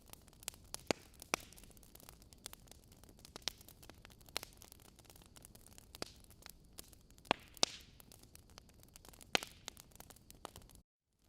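Wood logs burning in a fireplace, crackling with irregular sharp pops over a soft hiss. The sound cuts out to silence for a moment near the end.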